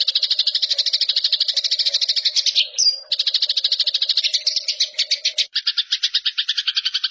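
Eurasian tree sparrow giving its rapid fighting chatter, a dense run of short, high notes at about ten a second. It breaks off briefly about three seconds in with one higher note, then resumes; near the end a lower second line of notes joins in.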